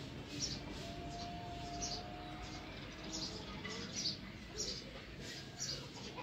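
Small birds chirping: short high chirps repeating every half second or so over a steady low background hum, with one brief held note about a second in.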